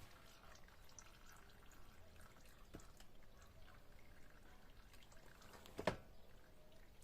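Used engine oil trickling faintly out of a Kovi Advance 300 motorcycle engine's drain hole into a drain pan. There is one sharp click a little before six seconds in.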